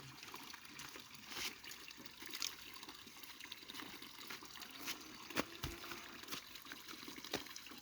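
Small stream trickling faintly, with a few sharp clicks scattered through it.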